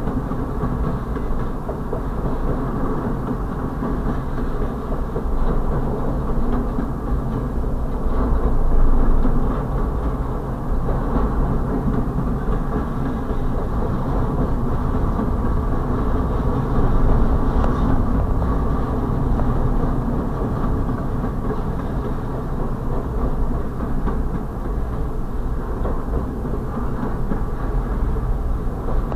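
Intermodal freight train's container-laden well cars rolling past, steel wheels on the rails making a steady rumbling noise that swells slightly now and then.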